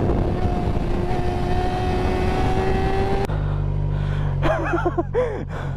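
Motorcycle engine running at road speed over a dense rushing noise, its note rising slightly. About three seconds in the sound changes abruptly to a low steady rumble, with a few short vocal sounds near the end.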